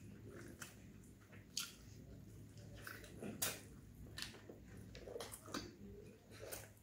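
Close-miked chewing of soft roti and curry eaten by hand: wet mouth sounds with a few short sharp clicks scattered through, over a low steady hum.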